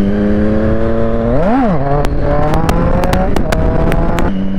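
Triumph Street Triple 675's three-cylinder engine under way, heard from the rider's seat. A quick rev rises and falls about a second and a half in. The revs then climb slowly through several sharp clicks before the throttle eases off near the end.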